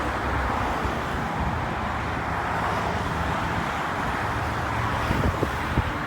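Steady outdoor background noise: a hum of road traffic with wind gusting on the microphone.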